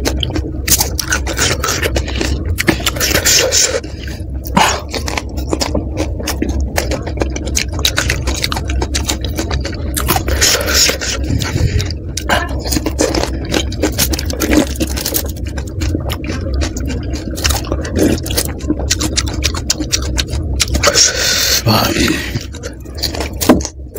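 Close-miked eating of panipuri: chewing and crunching of crisp puri shells filled with spicy water, with wet mouth sounds, and a few louder crunchy bursts as puris are bitten.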